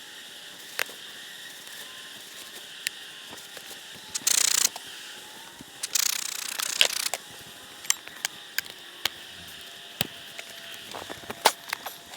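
Honey bees buzzing steadily around the hive, with scattered sharp clicks and two short rasping, ratchet-like bursts from hive boxes and equipment being handled.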